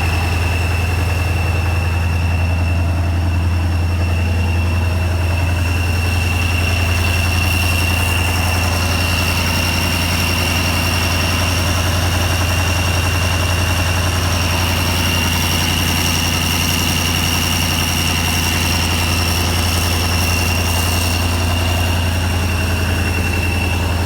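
Scania 140's V8 diesel engine idling steadily with no revving, a steady high-pitched whistle running over it.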